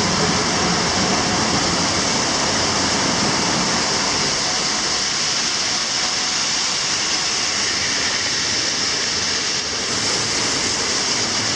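Water spraying hard from a ruptured pipe behind a toilet, a loud steady rushing hiss like a firehose, cutting off abruptly at the end.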